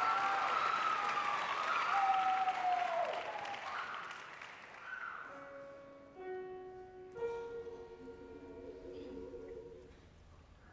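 Audience applause with some cheering, fading away over the first four seconds. Then a few steady sustained musical notes sound, held chords that begin about five seconds in.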